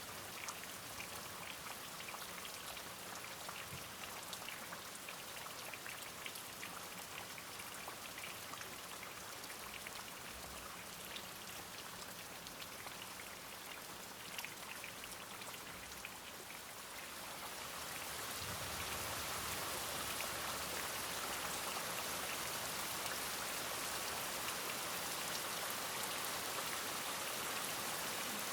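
Steady rain, with individual drops audible as fine ticks, growing heavier and louder into a dense, even downpour about two-thirds of the way through.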